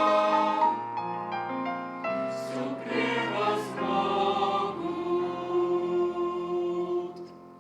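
Church choir singing the closing phrase of a hymn in Russian, the final chord held and dying away near the end.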